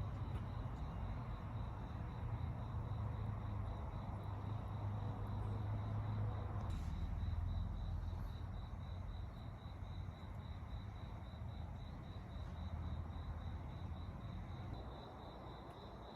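Crickets chirping in an even pulsing trill, about three pulses a second, over a low steady rumble.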